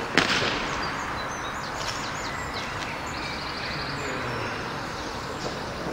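Small birds chirping and trilling intermittently over steady background noise, with a single sharp thump just after the start.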